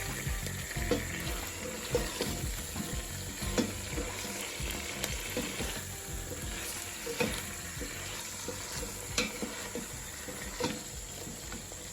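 Chicken and boiled sweet potatoes sizzling in hot oil and sauce in a pan, with a spoon knocking and scraping against the pan every second or two as it is stirred.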